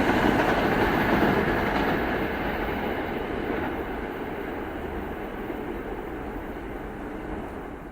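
A SEPTA Regional Rail electric train running past on the rails, its wheel and rail noise loud at first and fading steadily as it moves away.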